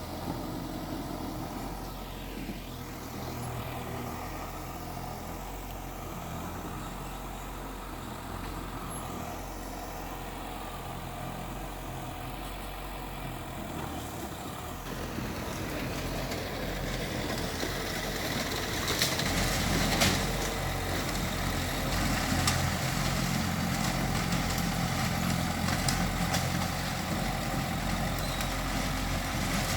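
Heavy diesel engine of earthmoving machinery running steadily. It grows louder from about halfway through, with several short sharp knocks in the louder part.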